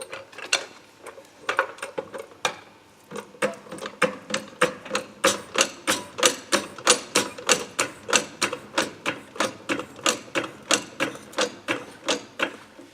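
Car jack being cranked up to lift the car, giving a regular mechanical clicking at about three clicks a second that starts irregularly and settles into a steady rhythm.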